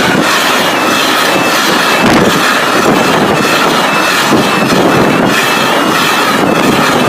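Freightliner Class 66-hauled freight train of wagons loaded with track sleepers passing close by, a loud steady rumble and rattle of wheels on the rails.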